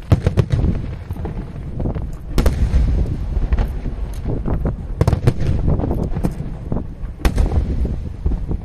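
Aerial fireworks shells bursting in quick succession: sharp booms and cracks over a continuous low rumble, with the heaviest bursts near the start and at about two and a half, five and seven seconds in.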